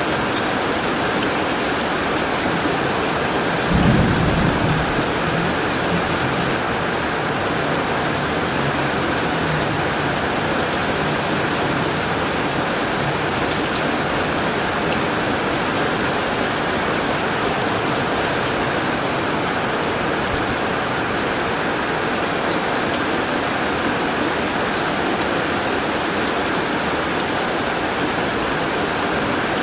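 Steady rain drumming on a tin roof, with a clap of thunder about four seconds in that rumbles low for a couple of seconds and fades.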